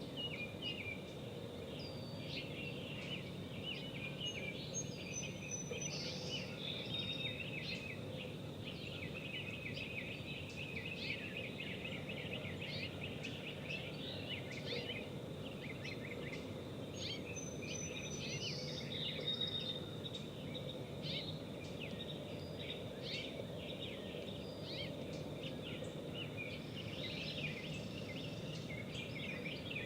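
Birds chirping and calling, many short quick notes with a few higher whistled phrases now and then, over a steady low hum.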